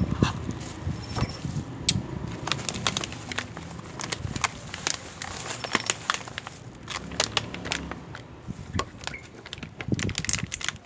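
Close-up chewing of crisp fresh fruit from a rujak fruit salad: wet crunching bites with many quick crackles, dense through the middle. Faint insect chirps are heard twice.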